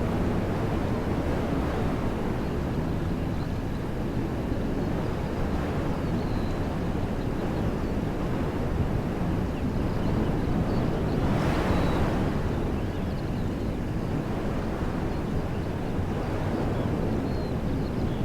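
Wind blowing steadily through woodland trees, a constant rushing with a stronger gust about two-thirds of the way in.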